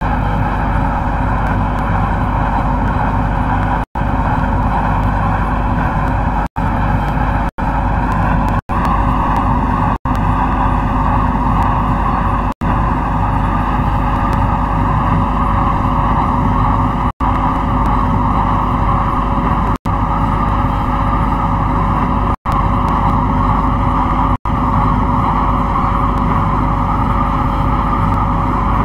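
MTR C-Train electric multiple unit running at speed: a loud, steady rumble of wheels and motors with a held tone and a whine that rises slowly in pitch. The sound cuts out completely for an instant about ten times.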